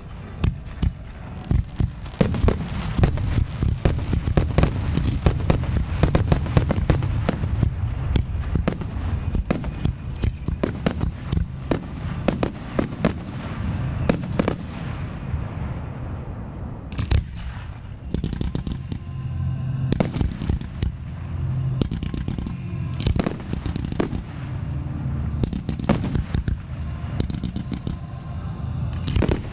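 Aerial fireworks shells bursting in quick succession, a dense string of sharp reports with crackle that thins out around the middle and picks up again toward the end. Music accompanying the display plays underneath.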